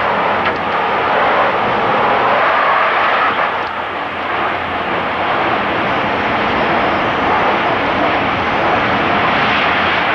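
The continuous roar of an F4 tornado's winds blasting the microphone: a loud, dense rushing noise that does not let up.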